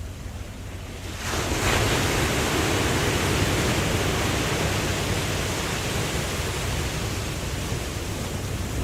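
Ocean wave breaking about a second in: a sudden rush of surf that slowly fades, over a low steady rumble of sea and wind.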